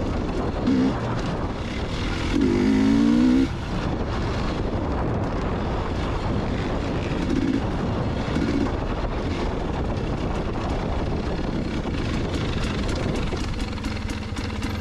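Two-stroke dirt bike engine running and revving, with a louder rev about two and a half seconds in and shorter blips later. Near the end it settles into a steadier, quieter low tone.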